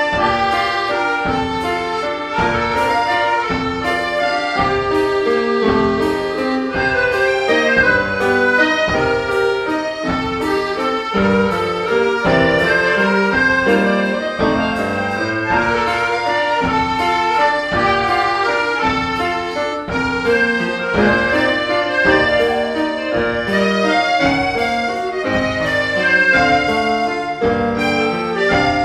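Chamber sextet of school-age players performing an instrumental piece, pitched melodic lines over evenly repeated accompanying chords in a steady pulse.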